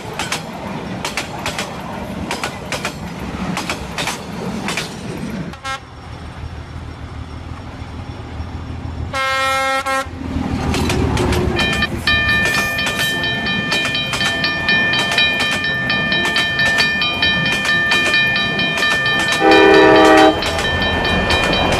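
Train sound effects: wheels clattering over rail joints, then a rumble and a short train horn blast. A railroad crossing warning bell then rings steadily, and a second, louder horn blast comes just before the end.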